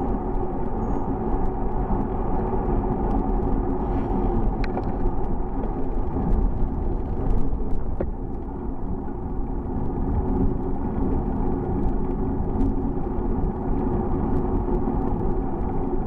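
Steady wind and road rumble heard while riding a bicycle, with scattered small clicks and rattles.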